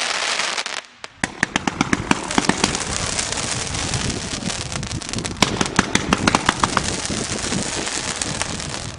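Fireworks going off: after a short lull about a second in, a dense run of rapid crackling pops with louder cracks scattered through it.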